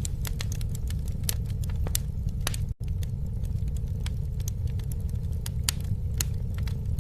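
Campfire crackling: irregular sharp snaps and pops over a steady low rumble of the flames. The sound cuts out for an instant about three seconds in.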